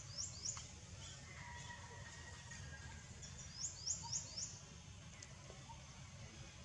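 Small bird chirping over faint outdoor background noise: two quick high chirps that sweep downward just after the start, then a fast run of four more a little past the middle.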